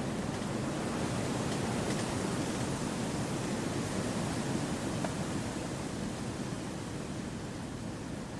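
Gentle wind blowing through forest trees: a steady rushing noise that swells slightly a couple of seconds in and eases off near the end.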